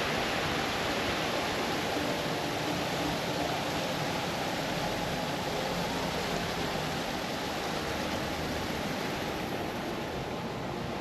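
Steady rushing of a stream cascading over rocks.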